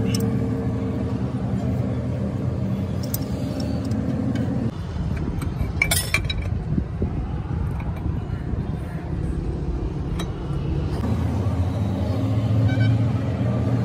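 An engine running steadily, with the hum turning rougher and noisier for several seconds in the middle; a few sharp metallic clinks about six seconds in.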